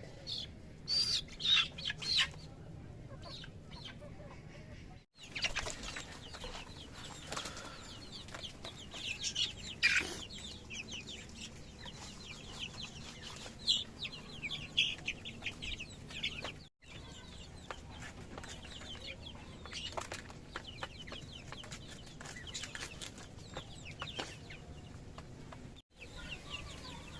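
Chickens clucking, with wing flaps and many short sharp taps.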